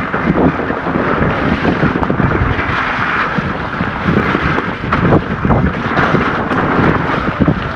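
Wind buffeting the camera microphone over a continuous low rumble and scattered knocks from a mountain bike riding over rough, wet trail.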